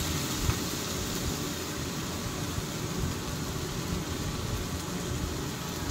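Onion-tomato masala frying in oil in a pan, a steady sizzle.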